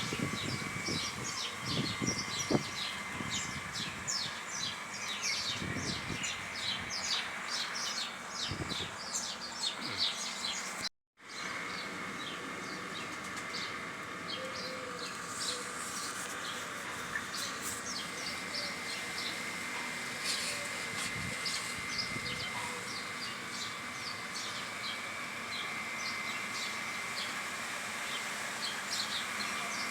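Many birds chirping and calling in quick short notes over a steady high drone. The sound cuts out completely for a moment about eleven seconds in.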